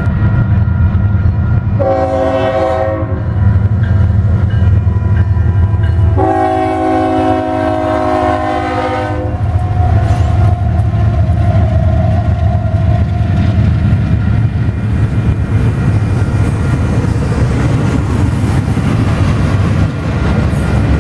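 A train rumbles past a grade crossing, its locomotive horn sounding a short blast about two seconds in and a longer blast from about six to nine seconds. A steady low rumble of the engines and wheels on the rails runs underneath and is the loudest sound throughout.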